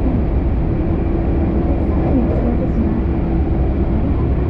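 Keisei Skyliner train running at speed, heard inside the passenger cabin: a steady low rumble with a steady hum-like tone over it.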